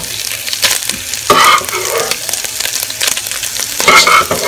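Ground beef with chopped tomato, onion, peppers and sausage sizzling in a hot pan, with a utensil clicking and scraping against the pan as it is stirred.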